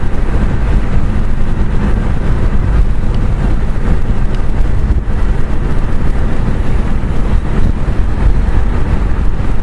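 Wind buffeting the microphone: a loud, steady rumble with a hiss over it and no break.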